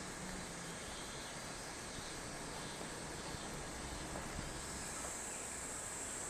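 Summer outdoor ambience: a steady hiss with a low rumble beneath, and a high, steady insect chorus that grows louder about five seconds in.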